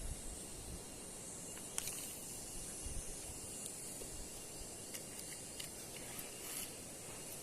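Steady hiss of a river's rushing water, with a handful of small sharp clicks scattered through it.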